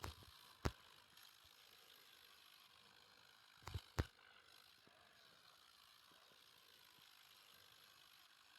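Near silence with a faint steady hiss, broken by a few sharp clicks: one about a second in and a quick pair about four seconds in.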